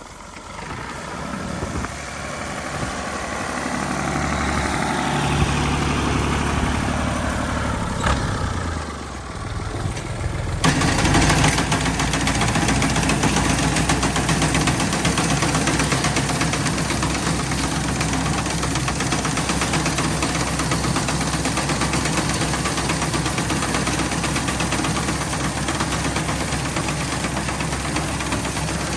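A tractor engine running with a reaper, growing louder over the first few seconds. About ten seconds in, a louder, dense, steady mechanical clatter sets in suddenly and runs on with the engine.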